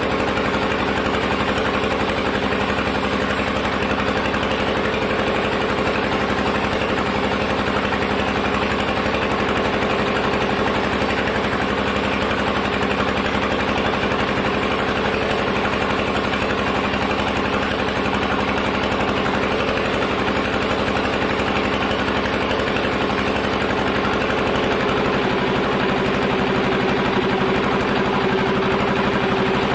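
Sawmill machinery's engine running steadily at constant speed, with a hum that grows stronger near the end.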